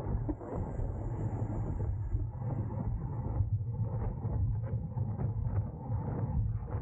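Road bike at race speed: wind rushing over the microphone and tyre rumble on the road, a steady low rumble with a few short ticks in the second half.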